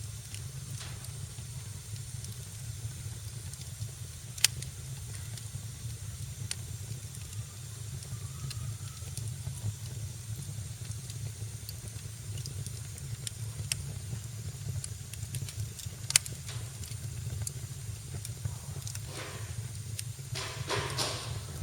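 Wood fire crackling in a fireplace: a steady low rumble and hiss of the flames with scattered small crackles, two sharp pops about twelve seconds apart, and a quick run of crackles near the end.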